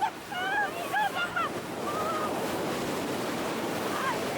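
Sea water rushing and splashing alongside a ferry, with wind on the microphone. Voices of people are heard briefly in the first second and a half.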